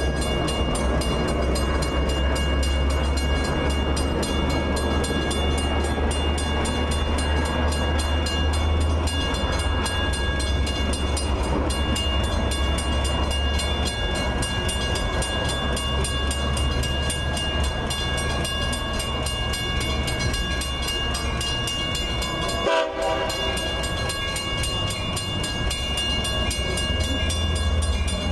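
Long Island Rail Road diesel-hauled bilevel passenger train approaching: a steady, heavy low rumble with a steady high whine over it.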